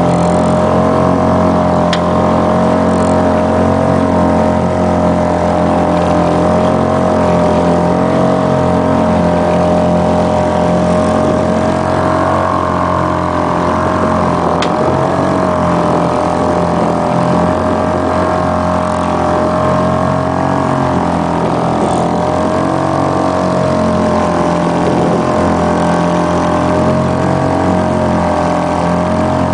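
A motorboat's engine running steadily at cruising speed: a constant drone with a steady, slightly wavering whine on top.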